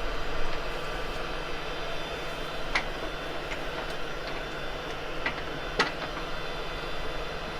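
A few light clicks and knocks as a wooden bowl's foot is fitted into metal lathe chuck jaws, over a steady workshop hum.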